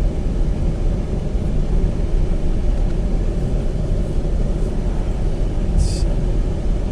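Steady low rumble of an SUV being driven, heard from inside the cabin, with a short hiss about six seconds in.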